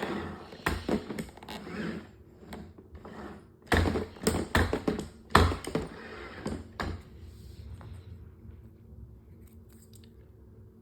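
Roomba robot vacuum running with a steady motor hum while it clatters and crunches over crackers, in two spells of rapid sharp knocks, the second about four seconds in and the loudest; near the end only the hum and a few faint ticks remain.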